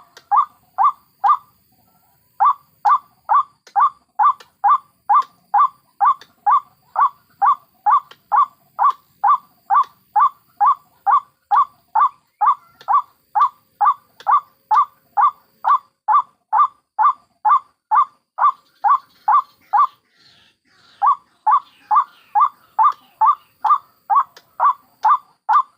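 White-breasted waterhen (ruak-ruak) calling: a short, repeated note about two and a half times a second, broken by two brief pauses, one near the start and one about three-quarters of the way through.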